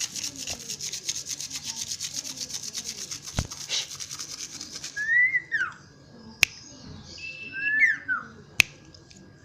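A rapid, rasping rubbing noise for about the first five seconds, then a few short whistled notes that rise and fall, from a cipoh (common iora) calling, with two sharp clicks between them.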